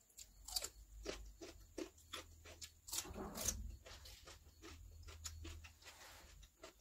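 Close-miked eating sounds: crunching and chewing a raw cucumber slice, with many quick wet mouth clicks and lip smacks. About three seconds in comes a longer, louder wet mouth sound.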